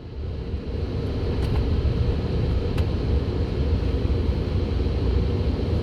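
Steady low rumble of an automatic car wash, heard from inside the car as it moves through.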